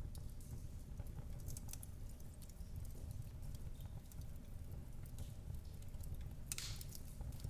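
Wood fire crackling in a fireplace: scattered sharp pops and snaps over a low, steady rumble, with a short burst of louder crackling hiss near the end.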